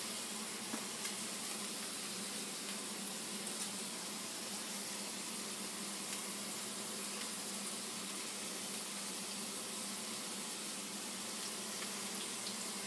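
Burger patties sizzling steadily in a pan on the stove.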